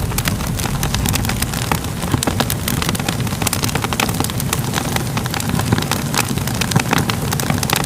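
Fire crackling: many quick, irregular pops and snaps over a steady low rumble of burning.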